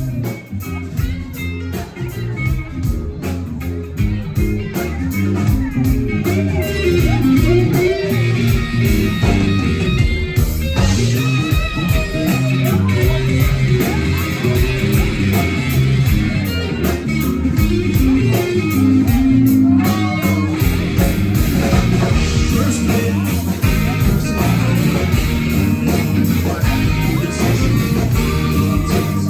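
Live band playing an instrumental passage: guitar over bass and drums, getting louder over the first few seconds and then holding steady.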